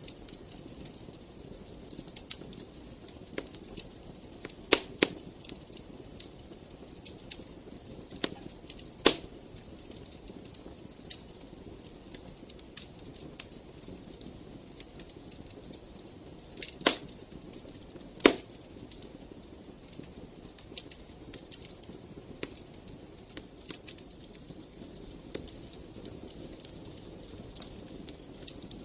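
Fireplace fire crackling: a steady run of small crackles over a low rumble, with a few louder, sharper pops scattered through.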